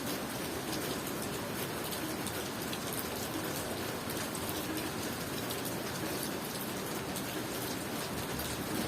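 Steady tropical rain falling, with many small drop hits ticking through an even hiss.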